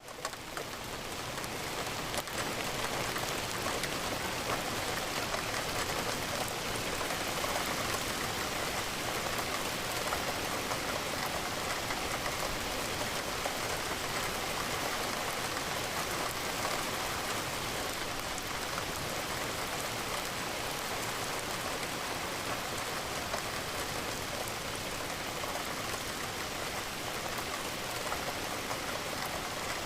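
Steady rain falling against a window, an even wash of drops. The sound drops out for an instant at the start and swells back up over about two seconds.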